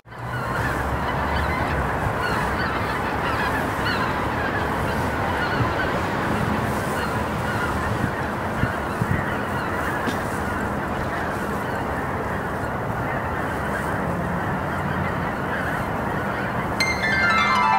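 A large flock of geese honking, a steady dense clamour of many overlapping calls. About a second before the end, music comes in with a falling run of notes.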